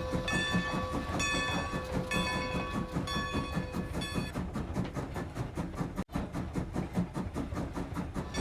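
Train sound effect: a steady fast chugging rhythm, with several short multi-tone whistle blasts over the first half. The sound cuts out for an instant about six seconds in.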